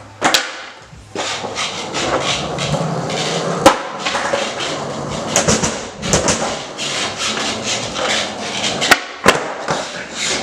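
Skateboard rolling on a hard basement floor, with sharp wooden knocks of the board popping and slapping down as tricks are tried, the loudest a few seconds in and twice near the end.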